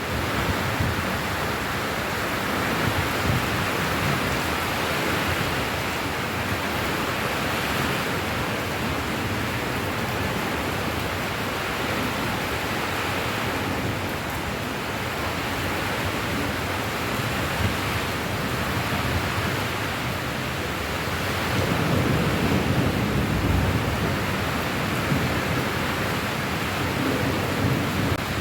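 Steady, heavy rain falling as a continuous hiss, with a low rumble swelling for a few seconds about three-quarters of the way through.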